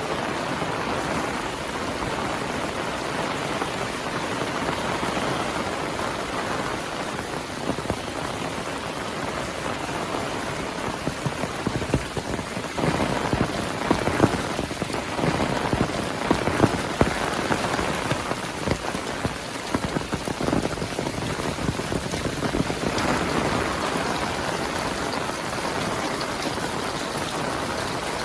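Heavy rain falling steadily, with a spell of louder, close individual drops striking a surface about halfway through.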